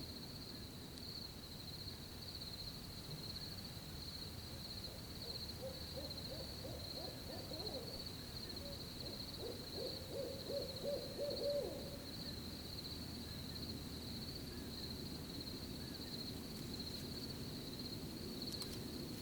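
An owl hooting, a run of low hoots about midway that is quickest and loudest just before the end of the run, over a steady high-pitched cricket chirping.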